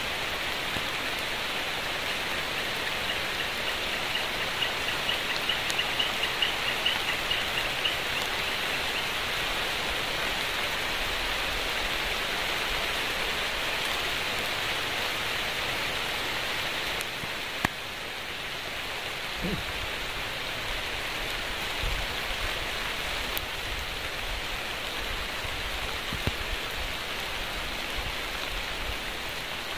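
Steady rainfall, an even hiss throughout. A brief run of quick high ticks comes a few seconds in, and there is a single sharp click a little past the middle.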